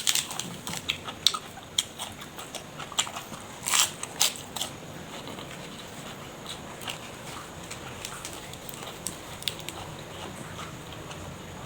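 Close-miked eating: crisp, crackly crunching bites and chewing, dense through about the first five seconds, then sparser, quieter chewing.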